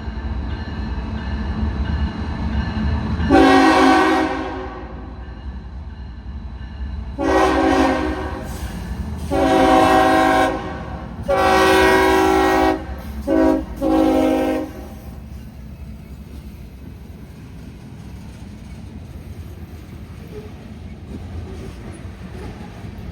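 Freight locomotive's multi-chime air horn blowing a series of blasts: one about three seconds in, then three long blasts and two short ones, over the steady low rumble of the approaching train.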